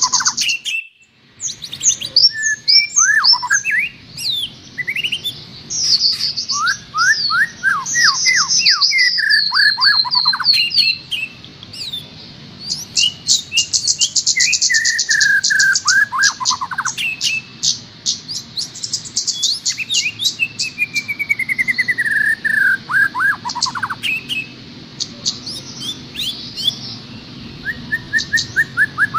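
Songbird song played as a masteran, a tutor recording for training caged songbirds: a fast, varied string of chirps and falling whistles, with quick high ticking trills and long downward-sliding trilled runs, broken by a brief pause about a second in.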